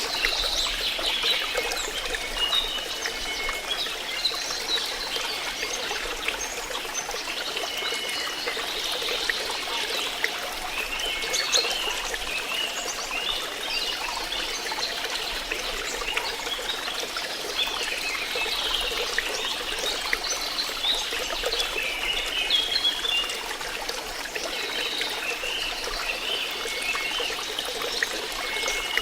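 Flowing water trickling and gurgling steadily, with many small irregular splashes and bubbling notes over a constant rush.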